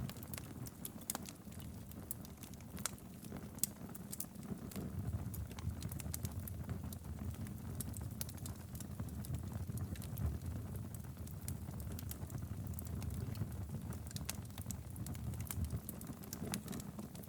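Wood fire burning steadily in a fireplace: a low rumble of flames with frequent sharp crackles and pops scattered throughout.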